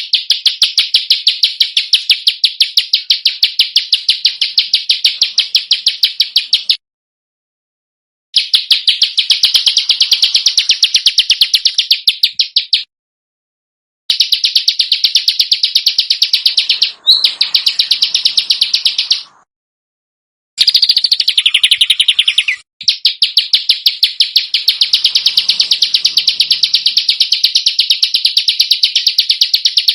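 Recorded songbird calls: a rapid, evenly repeated, harsh chirping, played in runs of several seconds with clean silent gaps between them, as in an edited bird-call training track.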